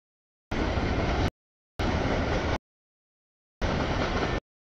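CSX freight train noise heard as three short snippets, each under a second, that start and stop abruptly with dead silence between them.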